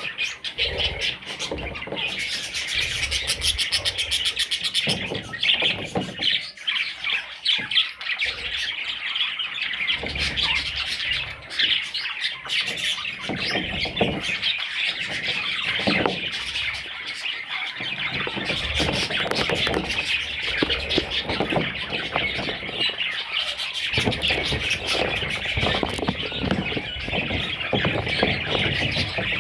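Many budgerigars chirping and squawking at once in a dense, unbroken chatter.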